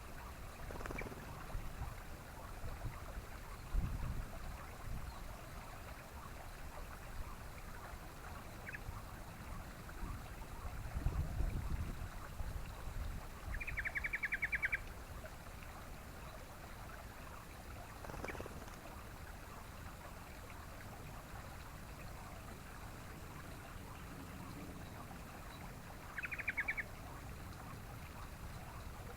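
Yellow-vented bulbul (trucukan) giving rapid bubbling chatter, two short bursts about 14 and 26 seconds in, over low rumbling background noise.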